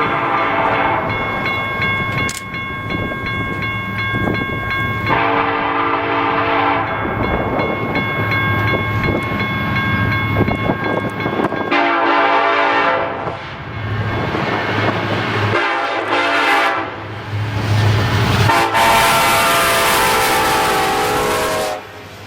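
Freight locomotive air horn blown in a series of blasts, long ones with a short one near the end, then a final long blast that cuts off abruptly, over the steady rumble of the moving train.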